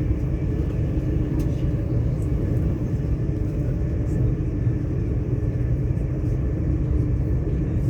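Passenger train running through a tunnel, heard from inside the carriage: a steady low rumble with a few faint ticks.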